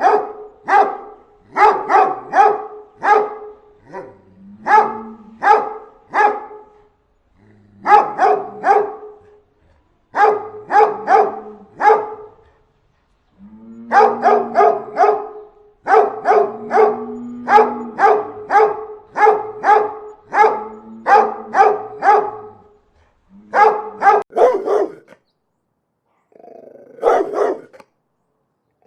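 A dog barking repeatedly in quick volleys of several sharp barks, with short pauses between volleys.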